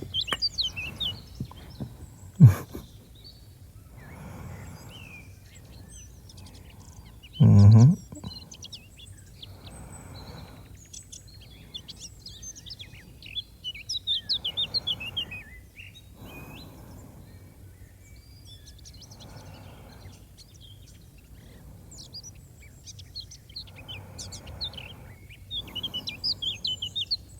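Birds chirping and tweeting in quick clusters of short calls. A sharp click comes a couple of seconds in, and a brief, loud, low thump about seven and a half seconds in.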